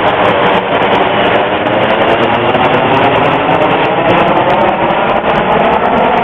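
Steady, loud drone of a vintage propeller airliner's piston engines, the Rosinenbomber DC-3, running at constant power.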